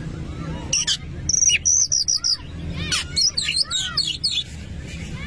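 Oriental magpie-robin (kacer) singing: varied high whistled phrases, with a quick run of half a dozen repeated notes about a second in, then rapid twisting trills. A steady low background noise runs underneath.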